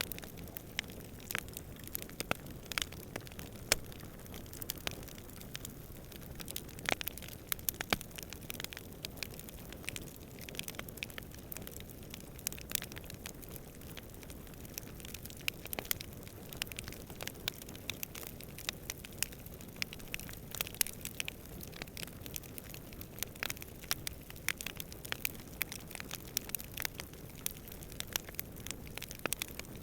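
Wood campfire crackling, with frequent irregular sharp pops and snaps over a steady low rumble of distant wind.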